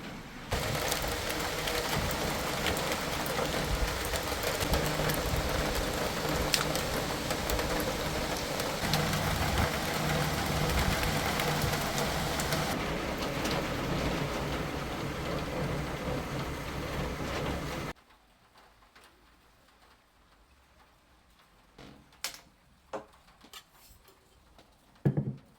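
Steady rain with the patter of many fine drops, starting suddenly just after the start and cutting off abruptly about three-quarters of the way through. After that it is nearly quiet, with a few soft knocks near the end.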